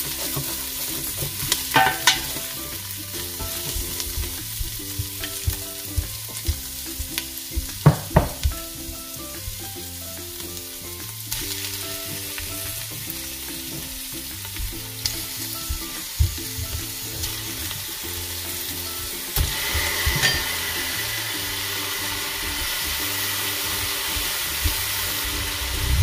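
Lemongrass, ginger and onion sizzling in oil in a stainless steel pot while a wooden spatula stirs them, with a few sharp knocks of the spatula against the pot. Raw chicken pieces go in, and the sizzling grows louder about three-quarters of the way through.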